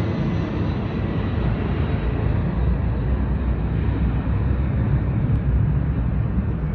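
Delta Boeing 757-200 twin-engine jetliner departing: a steady low rumble of jet engine noise.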